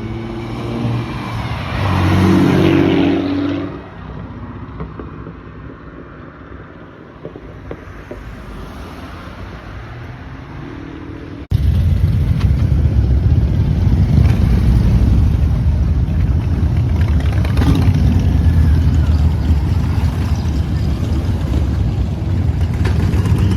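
Motor vehicle engine running and revving, its pitch rising and falling, for the first few seconds, then dropping back to a quieter run. After a sudden cut, an engine runs loudly and steadily at a low, even pitch.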